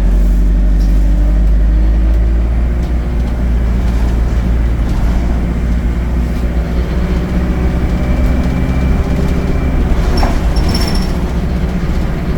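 ADL Enviro 200 bus engine running as the bus drives along, a loud steady drone whose pitch drifts slowly, heard from on board. A brief high beeping sounds about ten seconds in.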